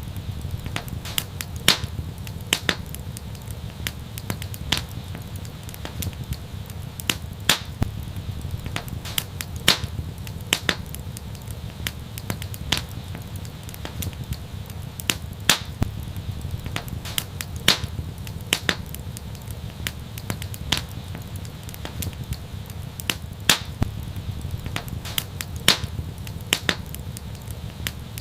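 Wood fire crackling: irregular sharp pops and snaps, several a second and some much louder, over a steady low rumble of the burning fire.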